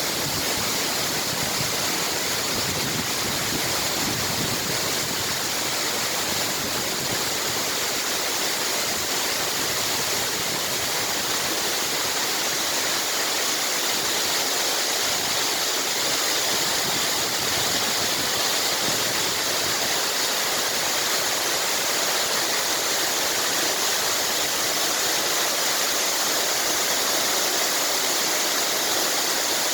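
Waterfall pouring in a steady, unbroken rush of water, running after a typhoon's rains.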